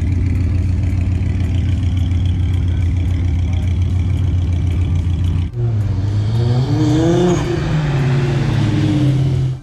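A tuned car's engine idling with a steady deep exhaust drone, then, after a sudden break about five and a half seconds in, being revved: the pitch climbs and falls twice.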